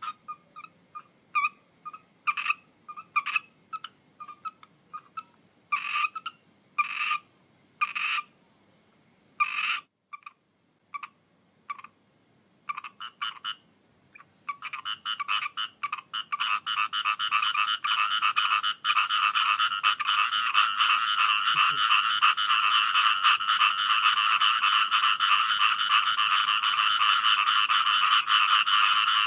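A frog chorus. For the first half single croaks come at scattered intervals; from about halfway a dense, continuous chorus of many calling frogs takes over.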